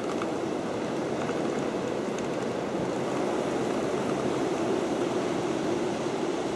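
Blizzard wind blowing across an open ridge in gusts of up to about 40 mph, a steady rushing noise that swells slightly midway.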